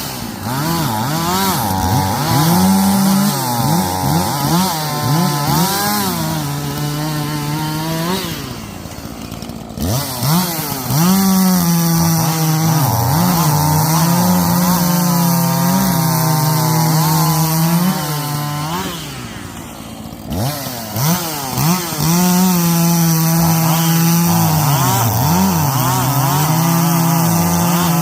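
Echo CS-590 Timber Wolf two-stroke chainsaw run at full throttle, cutting wood. The engine note wavers slightly under load. Twice, about nine and twenty seconds in, it drops back toward idle and then revs up again into the next cut.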